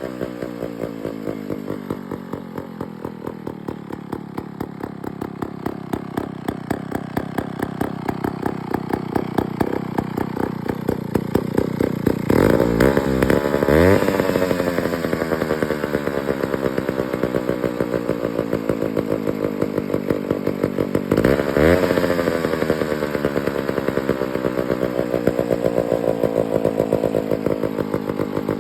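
McCulloch 99 two-man chainsaw's two-stroke engine, just brought back to running, idling with a steady pulsing beat. It is revved up briefly twice, about halfway through and again about three-quarters of the way in.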